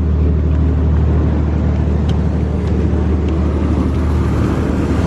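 Steady low drone of a yacht's engine running while the boat waits at its berth, with a few faint ticks over it.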